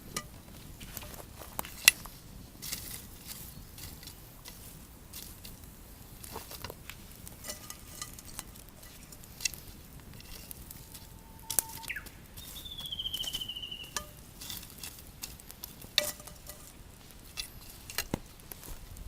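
Tempura frying in hot oil over a wood fire, a faint sizzle broken by scattered sharp pops and crackles.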